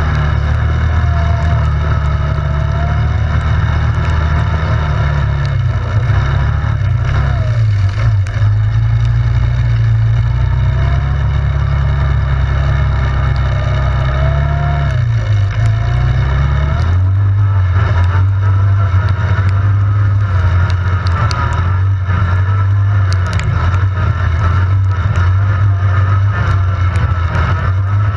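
ATV engine running on the move, its pitch rising and falling with the throttle. About 17 seconds in, the note drops and settles into a lower, steadier pitch.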